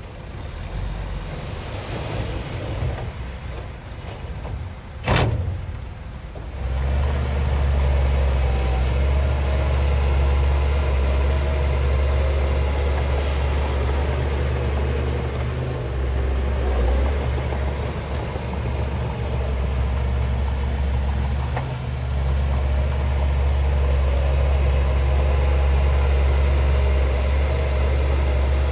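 Heavy diesel engine of earthmoving machinery running steadily with a deep drone that comes up strongly about six seconds in. A single sharp click just before that.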